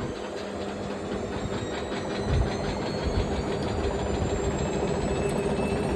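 Washing machine running, a steady hum and rumble with a thin motor whine slowly rising in pitch, and a low thump a little after two seconds in.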